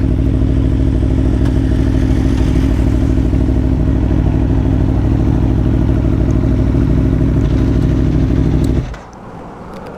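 Sport motorcycle engine idling steadily, then cutting off suddenly about nine seconds in.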